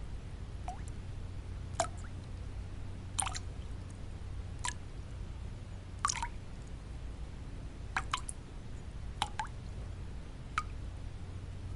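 Water drops dripping one at a time, about eight drops at slow, uneven intervals, each a short plop with a quick drop in pitch, over a steady low hum of white noise.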